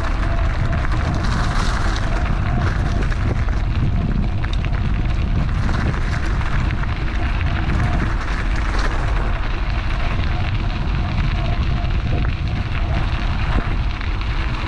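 Steady loud wind buffeting and rumbling on an action camera's microphone while riding an electric bike.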